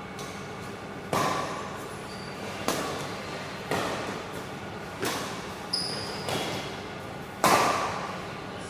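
Badminton rally: rackets strike the shuttlecock six times, one to one and a half seconds apart, each hit echoing in a sports hall, the loudest near the end. Short high shoe squeaks on the court floor come between the hits.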